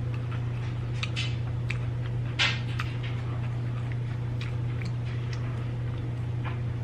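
Close-miked eating sounds: a few short crunches and wet mouth clicks from chewing fried chicken, over a steady low hum.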